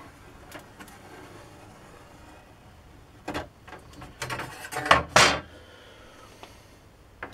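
Workbench handling noises as an old saw blade and tools are moved about: a knock about three seconds in, a quick run of knocks and scrapes a second later with a brief scrape as the loudest sound, and a sharp click near the end.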